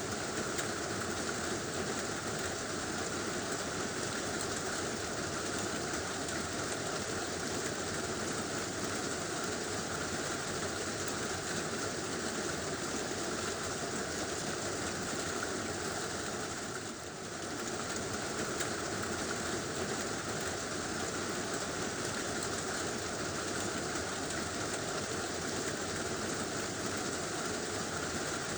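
Heavy rain drumming steadily on a tin roof, with a brief dip in loudness about 17 seconds in.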